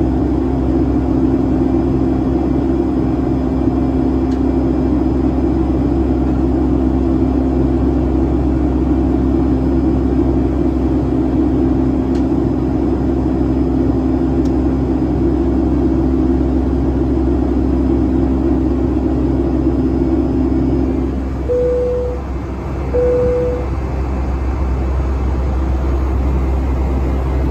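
Steady drone of a Boeing 757-200's Pratt & Whitney engines heard inside the cabin during the climb. About three-quarters of the way through, the engine tone drops away as thrust is eased back, and two short cabin chimes of the same pitch sound about a second apart.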